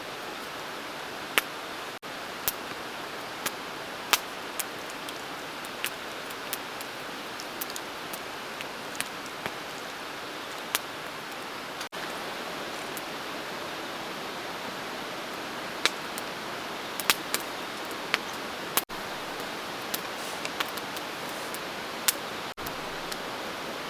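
Steady rushing of a river, with sharp irregular clicks and crackles on top about once a second.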